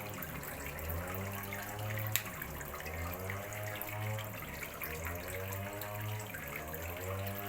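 Water running and splashing steadily into a fish pond, with a single sharp click about two seconds in.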